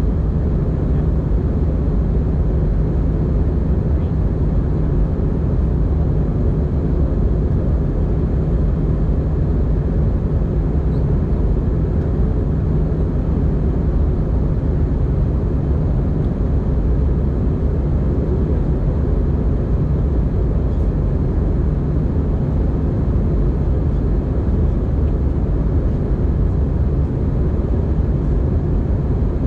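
Steady low drone of an Airbus A320-200 in flight, heard inside the passenger cabin: engine noise and airflow, even in level throughout.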